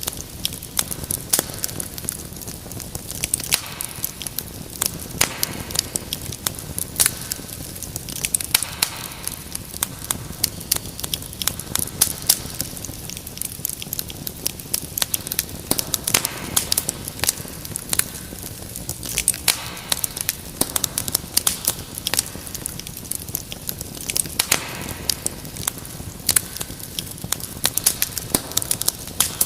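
Wood fire crackling steadily, with irregular sharp pops and snaps over a low rumble of burning.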